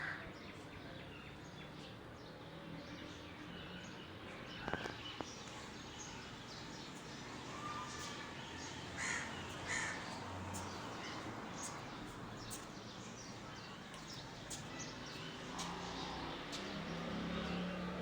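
Birds calling in an aviary: a few short loud calls, two of them close together about nine seconds in, with faint high chirps over a steady background hiss.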